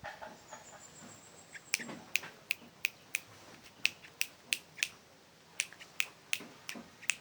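Yellow-vented bulbuls giving a run of short, sharp chip calls, about three a second with a brief pause near the middle, with a faint thin high whistle near the start.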